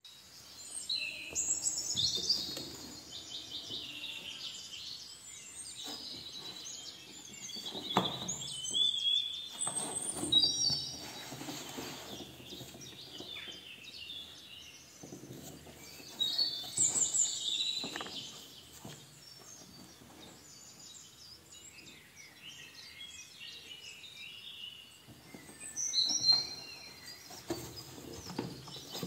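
Birds chirping and singing in bursts of high, quick sweeping notes, with pauses between the bursts.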